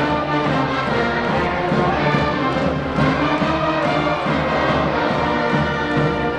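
Brass band playing a cheering tune in sustained, stacked notes.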